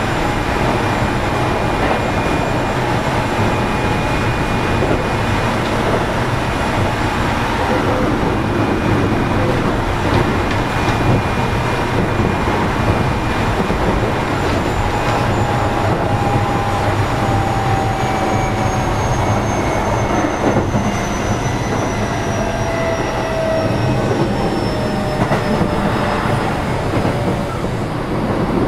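Keio 7000-series electric train car running on the line, heard from inside the car: a steady rumble of wheels on rail with a thin motor whine that slowly falls in pitch through the second half as the train loses speed.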